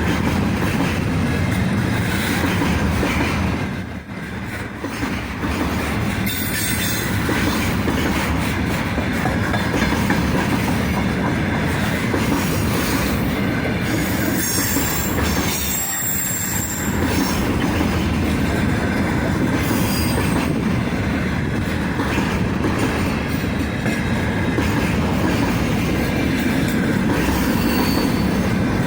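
Freight train wagons rolling past, the wheels rumbling and clattering on the rails, with thin high wheel squeals now and then.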